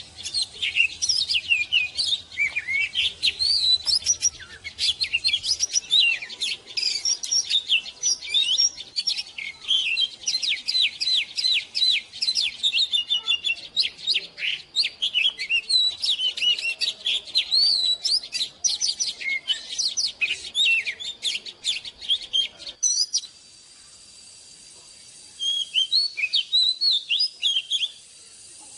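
Oriental magpie-robin singing a rapid, varied run of clear whistled phrases. The song breaks off abruptly about three-quarters of the way through, and after a short pause a shorter burst of song follows.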